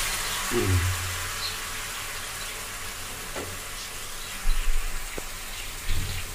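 Hot water poured into a wok of frying spice masala, which sizzles as the water hits the hot oil; the sizzle is strongest at first and slowly fades. A few low knocks come about four and a half and six seconds in.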